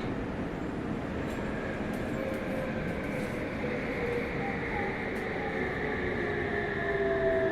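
Meitetsu 100 series train running, heard from inside the car: steady wheel and rail rumble under the whine of its Mitsubishi GTO inverter and traction motors, whose tones slowly fall in pitch and grow stronger near the end.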